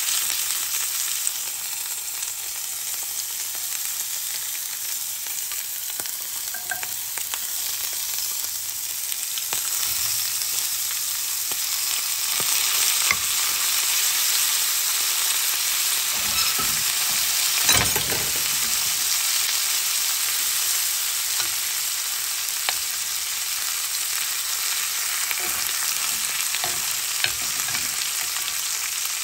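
Filet mignon and lobster tail searing in a frying pan with butter: a steady high sizzle, with a few light knocks in the pan, the loudest about 18 seconds in.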